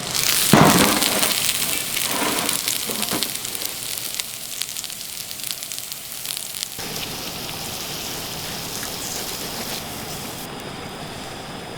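Sizzling and a wood fire crackling while steak cooks over a campfire: a loud surge of sizzle about half a second in that settles into a steady hiss, with the sound changing abruptly about seven seconds in.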